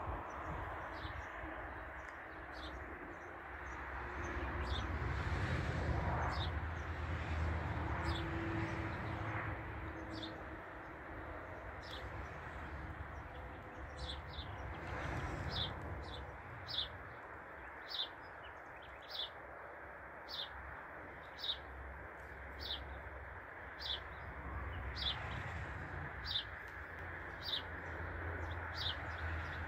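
A bird chirping over and over, short high notes that drop in pitch, scattered at first and then about once a second through the second half, over a steady low background rumble.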